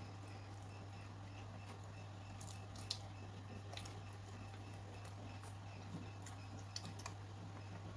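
Faint eating sounds: a person chewing, with scattered soft wet clicks and squishes, the sharpest about three seconds in. A steady low hum runs underneath.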